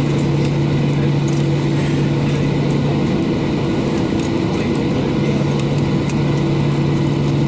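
Steady machine hum inside the cabin of a Boeing 737-800, a low drone with a second, higher tone above it. A few faint clicks sound over it.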